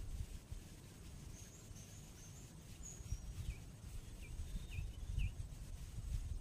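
Wild birds calling over a low rumble of wind on the microphone: a run of high, thin chirps in the first half, then four short falling notes.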